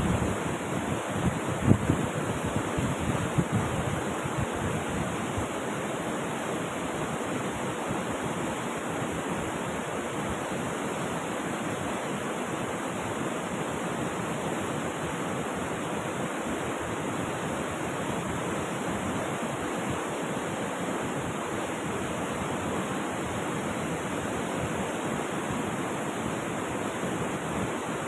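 Flowing river water making a steady rush, with a few louder low surges in the first few seconds before it settles to an even level.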